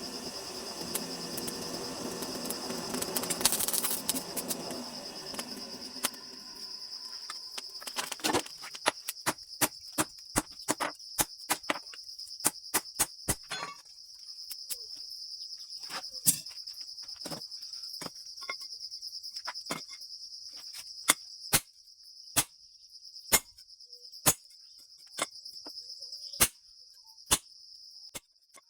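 A steady high chirring of crickets, with many sharp taps or knocks at irregular intervals, about one or two a second. A broad rushing noise fades out over the first few seconds.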